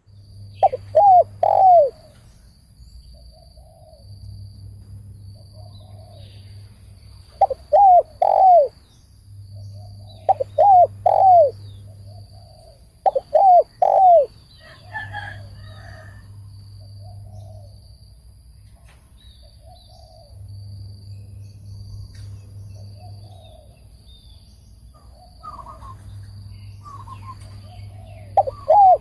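Spotted dove cooing: five loud phrases of three quick coos, each note bending down in pitch, with a long gap in the middle.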